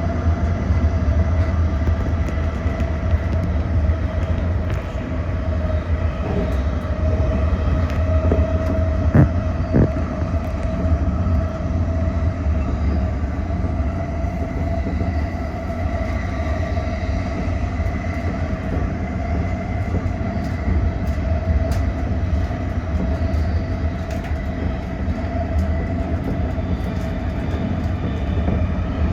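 Toyo Rapid Railway 2000 series electric train running, heard from inside the car: a steady low rumble with a steady motor whine above it, and a couple of sharp knocks about nine and ten seconds in.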